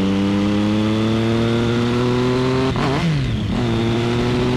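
Motorcycle engine under steady acceleration, its pitch climbing slowly. About three seconds in there is a quick throttle blip where the pitch dips and climbs back before it carries on rising.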